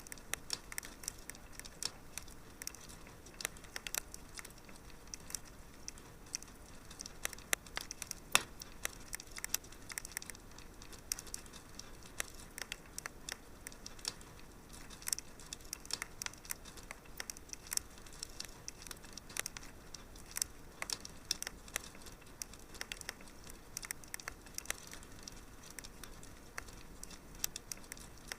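Wood fire crackling: frequent irregular sharp pops and snaps over a soft steady hiss, the loudest pop about eight seconds in.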